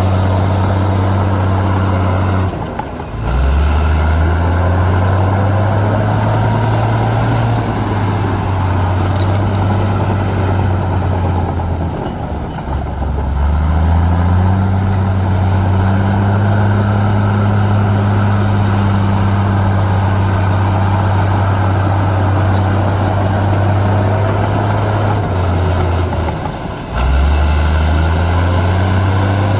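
Heavy diesel engine of earthmoving machinery running hard and steady. Three times, about 3 s in, around 12 s in and about 26 s in, the revs briefly fall away and then climb back up.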